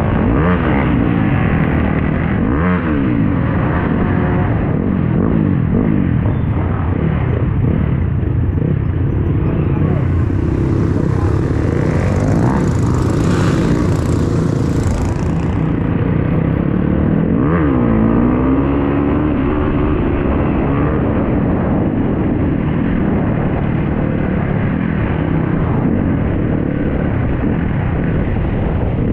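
Dirt bike engines running, revving up and down, with pitch glides rising and falling as they accelerate and shift. A rushing hiss comes in for several seconds near the middle.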